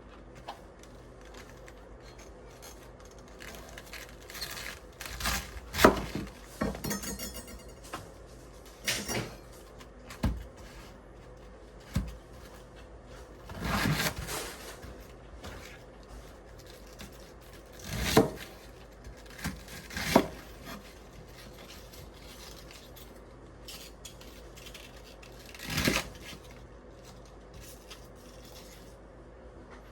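Dishes and utensils being handled in a kitchen: scattered clinks, knocks and set-down sounds with quiet pauses between, and a quick run of light ticks about seven seconds in.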